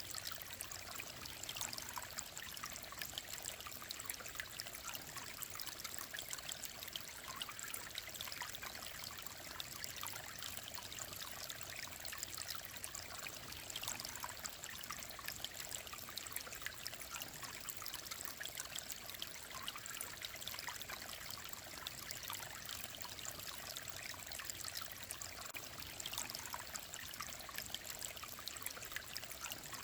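A clear mountain stream flowing steadily, a constant trickling rush made of many small splashes.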